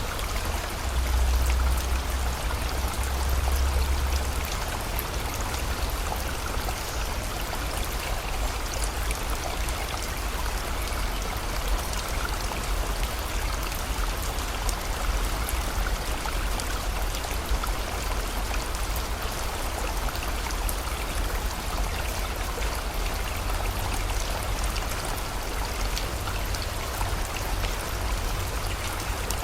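Rain falling steadily over a flowing stream, with fine drop ticks over an even rushing of water. A low rumble swells about a second in and fades a few seconds later.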